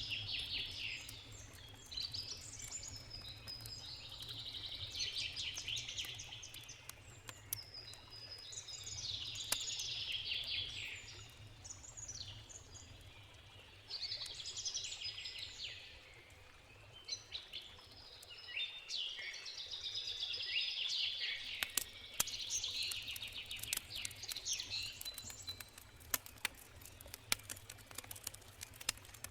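A songbird sings in repeated phrases of a few seconds each, over the sharp pops and crackles of a wood campfire; the crackles come thicker in the last third. A low, steady rush of the river runs underneath.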